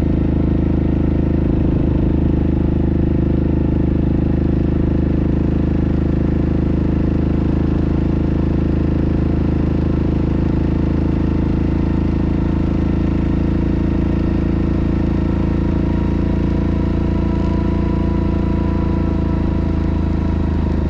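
Yamaha Grizzly ATV's single-cylinder engine running at a steady cruising speed, heard from on board.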